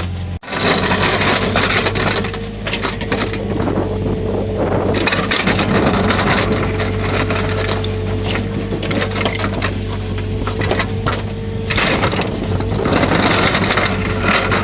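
Backhoe engine running steadily under load, with dense cracking and scraping as the multi-ripper tears through ground. The sound cuts out for a moment just after the start.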